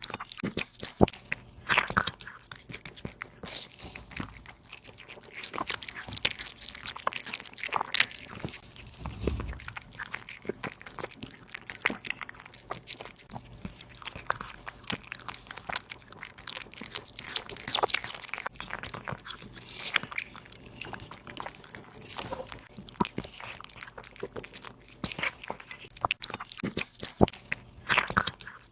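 A cat chewing and crunching its food close to the microphone, with irregular sharp crunches and bites, some in louder clusters.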